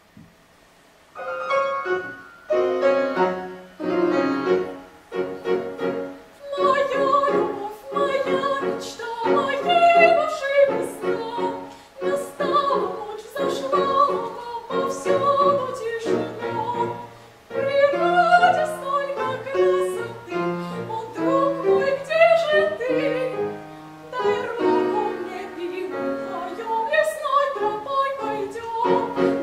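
A young female classical singer performs an art song with piano accompaniment, beginning about a second in after a brief pause.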